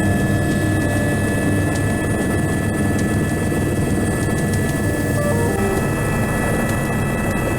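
Helicopter in flight: a steady, loud rotor and engine noise with a constant high whine above it.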